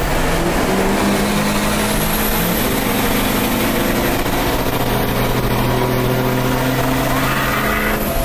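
A truck engine running loudly and steadily, its pitch holding and then shifting up and down in steps, with a faint high whine above it.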